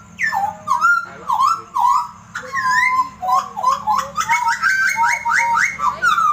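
Papuan butcherbird (jagal Papua) singing a fast run of loud whistled notes, many sliding down in pitch, settling about halfway into a quick even series of about four notes a second.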